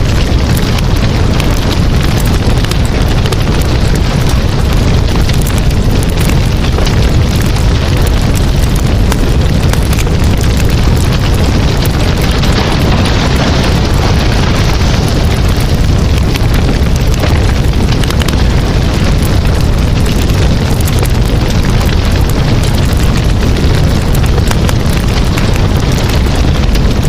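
Campfire burning: dense crackling and popping of burning wood over a steady low rumble.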